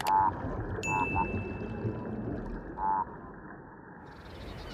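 Underwater hydrophone recording of the Mediterranean 'quaqua', a fish call whose maker is still unknown. Short, pitched croaking pulses sound over the hiss of the sea: one at the start, a quick pair about a second in, and another about three seconds in.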